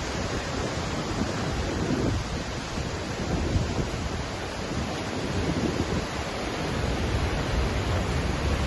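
Waterfall rushing steadily, a continuous noise of falling water with uneven low swells.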